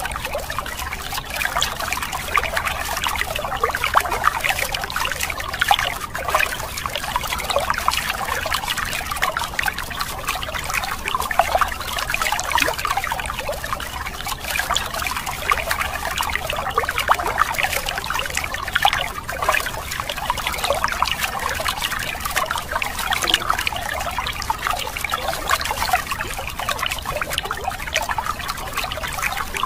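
A stream of water pouring and splashing onto plastic toy trucks and the wet ground around them, a steady trickling splatter.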